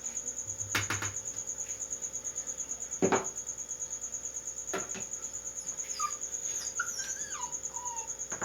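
A cricket trilling steadily, a high rapid pulsing that goes on without a break. There are a few sharp knocks from handling things in the kitchen, and some short gliding chirps near the end.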